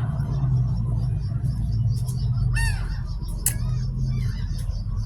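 Seagulls calling, with a couple of short squawks about halfway through, over a steady low rumble.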